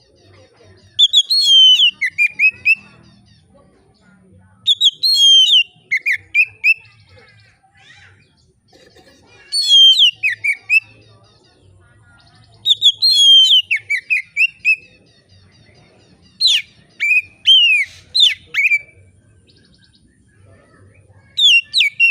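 Oriental magpie-robin (kacer) singing in the relaxed, open 'ngeplong' style: loud clear whistled phrases, most gliding down in pitch, six phrases with pauses of a few seconds between them.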